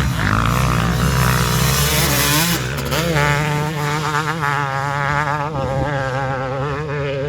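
KTM 250 two-stroke single-cylinder motocross engine running with a buzzing note. Its pitch wavers up and down as the throttle is worked.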